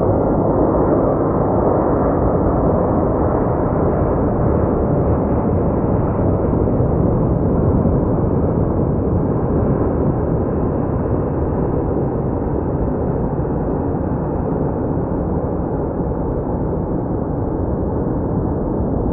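Jet airliner engine noise: a steady, deep rush that slowly fades.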